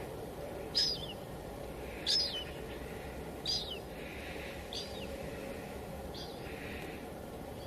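A bird repeats a short, high, falling chirp five times, about one every second and a half, over a steady hiss of light drizzle.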